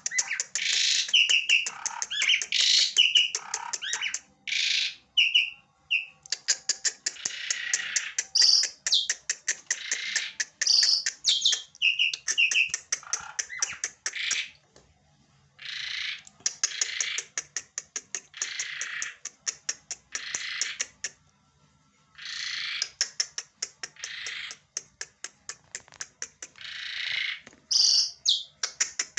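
Asian pied starling (jalak suren) calling: runs of fast clicking rattles mixed with harsh, noisy chatter and short whistled notes, broken by a few brief pauses.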